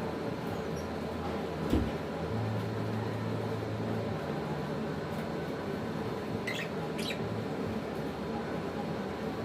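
Steady background hum with a single sharp knock about two seconds in, then two short high chirps from the African lovebirds a few seconds later.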